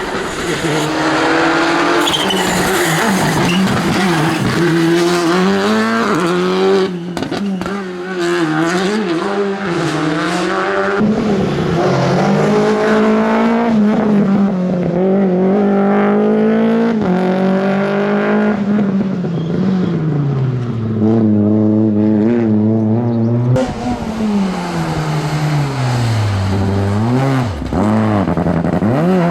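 Rally car engines driven hard, their pitch climbing through each gear and dropping sharply on lifts and downshifts, again and again.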